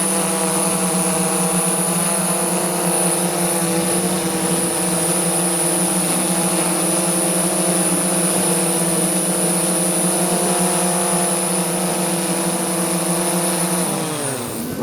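Multirotor drone's motors and propellers running with a steady buzzing whine and a thin high-pitched tone above it, then winding down in pitch just before the end.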